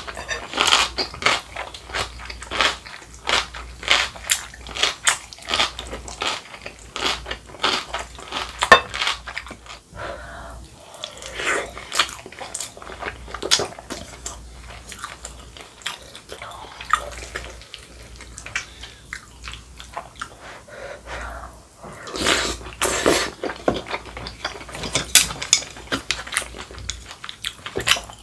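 Close-miked eating sounds: wet chewing and smacking of rice cake soup with dumplings, in many short irregular clicks. Now and then a ladle clinks against a bowl.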